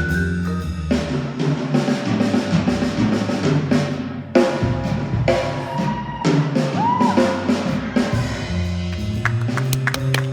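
Live small-band music: held vibraphone notes over an electric bass line, then from about a second in the drum kit comes in busily with snare and cymbals over the bass.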